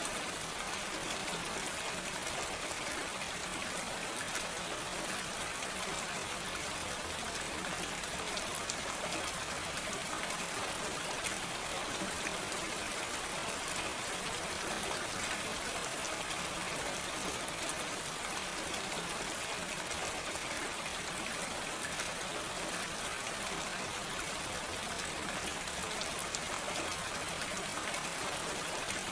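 Steady gentle rain falling, an even hiss with scattered drop ticks and no thunder.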